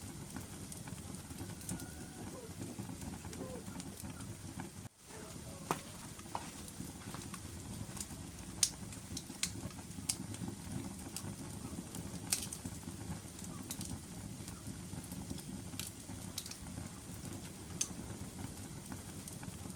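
Wood fire burning in a fireplace: a steady low rush of flame with scattered sharp crackles and pops from the burning logs, two of them louder about nine and twelve seconds in. The sound cuts out for an instant about five seconds in.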